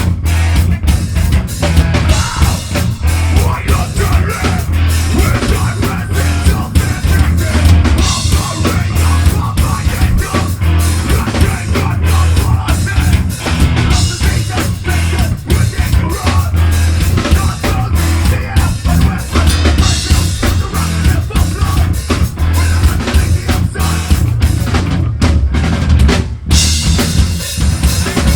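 Live metal band playing loud, with a fast, busy drum kit of kick and snare hits over heavy bass. About 25 s in the band stops for a moment, then comes back in.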